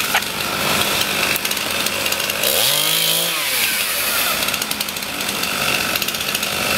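Chainsaw running, cutting storm-broken trees, with its pitch rising and falling once about halfway through.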